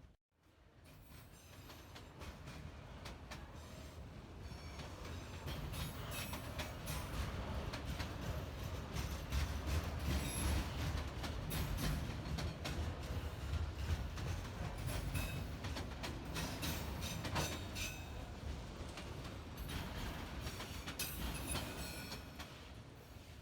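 Freight train rolling past: a low rumble of the cars with steel wheels clacking over the rail joints. It builds over the first few seconds and eases off near the end.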